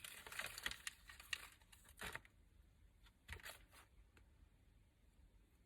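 Faint rustling and crinkling of crafting paper being handled, with a few soft taps a little after three seconds, then it goes quiet.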